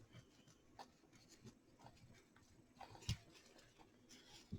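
Near silence with faint handling noise: small scattered taps and rustles, and one soft knock about three seconds in.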